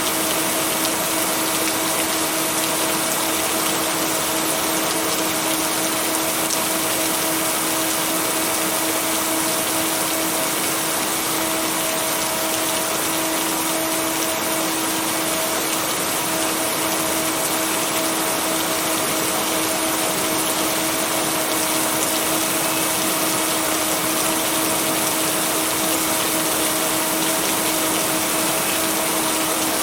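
Steady heavy rain, an even unbroken hiss, overlaid with a steady low hum tone and its octave. No thunder claps.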